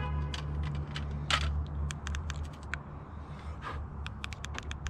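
Scattered light clicks and taps over a steady low hum, with a quick run of clicks near the end.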